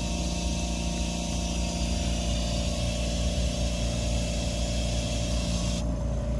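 Tyre-inflation air compressor running with a steady hum and a hiss of air, filling an e-bike tyre. The hiss cuts off sharply about six seconds in while the hum carries on.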